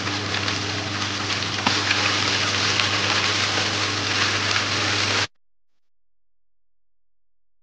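Boiled spinach sizzling in hot oil with fried onions and tomato paste in a frying pan as it is stirred with a silicone spatula, over a steady low hum. The sound cuts off suddenly about five seconds in.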